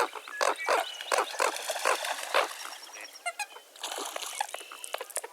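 Many birds calling at once in a dawn chorus: a dense run of short, harsh calls, with higher whistles and chirps joining near the end.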